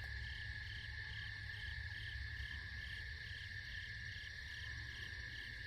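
Night chorus of calling insects: a steady high trill with a second, higher call pulsing about three times a second.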